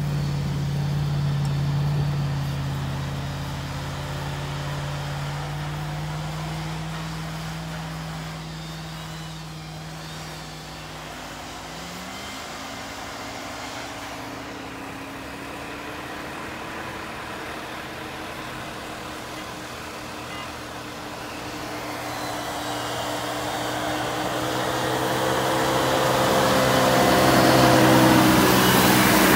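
V8 engine of an off-road vehicle running through snow: a steady engine hum fades over the first ten seconds or so, the revs rise about twelve seconds in, and the engine grows steadily louder as a Jeep Grand Cherokee ZJ with its 5.2 V8 drives up and passes close near the end.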